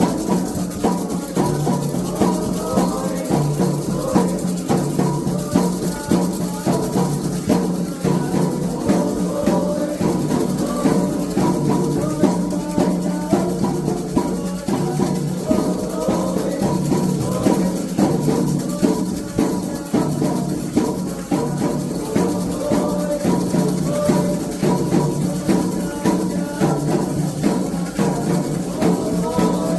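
Candomblé ritual music: atabaque hand drums and shakers keep up a fast, steady rhythm under chanting voices.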